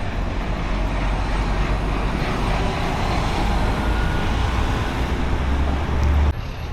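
Street traffic noise: a steady low rumble of motor vehicles that slowly builds, then cuts off suddenly about six seconds in.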